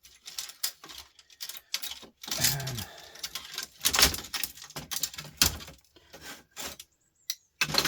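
Small metal and plastic parts of an old record player being handled and pulled apart by hand: irregular clicks, clinks and short scrapes, busiest in the middle.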